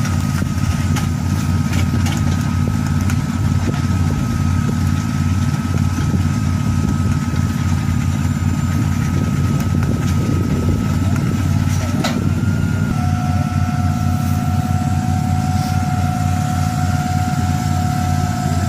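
A machine's engine running steadily with a low drone, over a constant high-pitched whine. About two-thirds of the way through, a second, lower whine joins and holds.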